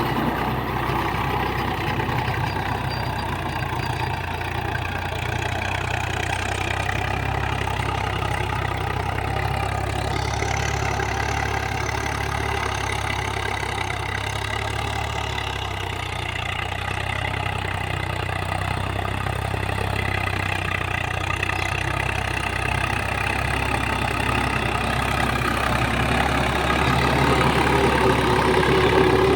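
Swaraj 855 FE 4WD tractor's diesel engine running steadily, getting a little louder near the end.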